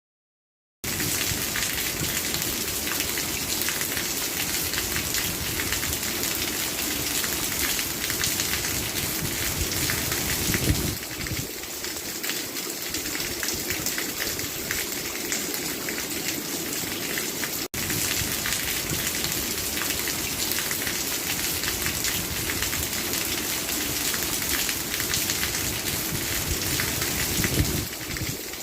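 Steady rain falling, a dense patter of drops. It starts abruptly after about a second of silence, its deeper rumble falls away about eleven seconds in, and it breaks off for an instant just past halfway.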